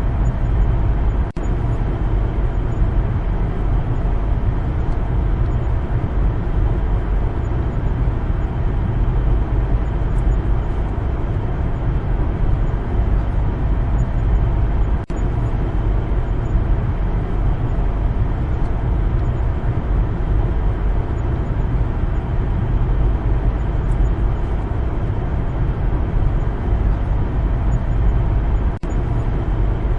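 Steady low rumble of a car driving, engine and road noise without any tones standing out, broken by three very short dropouts spaced about fourteen seconds apart.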